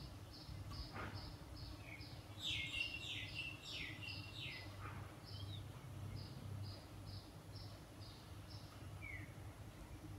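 Small birds chirping: one repeats a short high note evenly, about two and a half times a second, while another breaks in with a quick run of chirps about two and a half seconds in.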